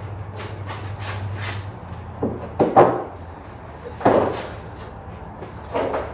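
A series of about five knocks and clunks, the loudest near three seconds in, over a low steady hum that drops away about two seconds in.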